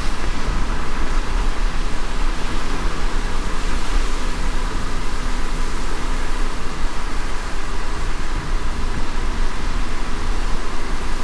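A car driving in light rain: a steady low rumble of the drive under an even hiss of rain and wet road.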